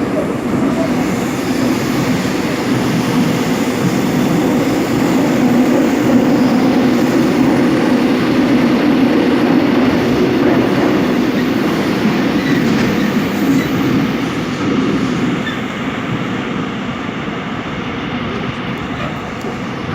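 Seoul Metro Line 7 subway train running between stations: a steady rumble of wheels on rail and running gear that eases somewhat after about fifteen seconds.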